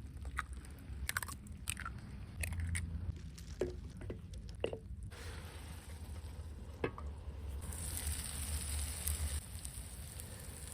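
Food handling or eating sounds: a few short sharp clicks and crunches in the first half, then a faint steady hiss that strengthens for a while later on.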